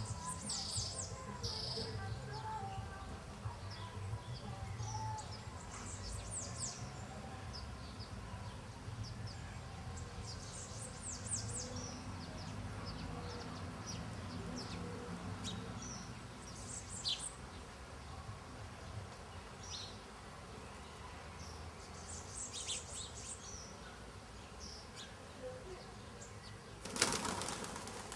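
Small birds chirping outdoors: many short, high chirps and trills scattered throughout, over a low rumble. Near the end there is a brief, louder rustling burst about a second long.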